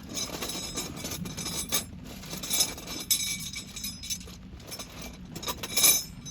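Metal tent pegs clinking against one another as they are pulled and gathered, a run of ringing metallic clinks with the loudest near the end.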